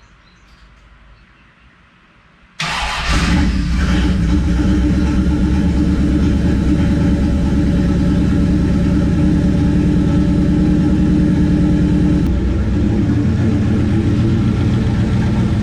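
Turbocharged 360 Magnum V8 with FiTech fuel injection in a 1969 Plymouth Valiant starting about two and a half seconds in, catching almost at once, then idling steadily. This is its heat-cycle run on freshly fitted cylinder heads.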